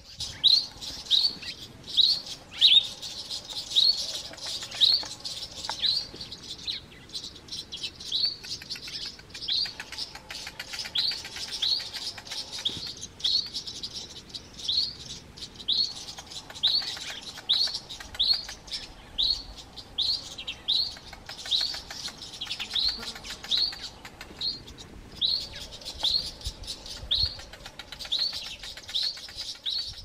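Garden birds' alarm calls scolding a boomslang tree snake: short, sharp, high notes repeated about one and a half times a second, with brief pauses.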